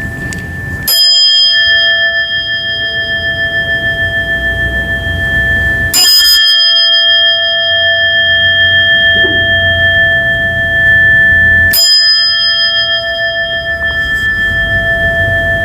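Buddhist butsudan bell (rin), a bowl-shaped bell struck three times about five to six seconds apart. Each strike rings on in several steady, long-sustaining tones that overlap the next strike.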